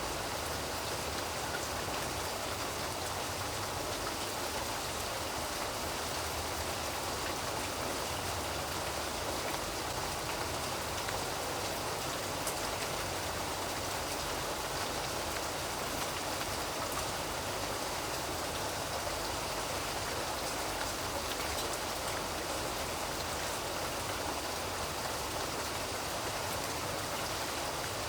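Steady rain falling, a dense even hiss with drops pattering on a surface.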